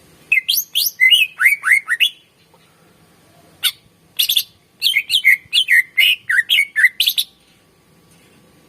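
Cucak ijo (greater green leafbird) singing: two runs of quick, chattering phrases made of short whistles that mostly slide downward, the first lasting about two seconds and the second from about three and a half seconds in to about seven.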